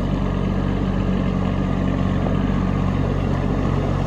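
Kubota B2601 compact tractor's three-cylinder diesel engine running steadily at an even speed.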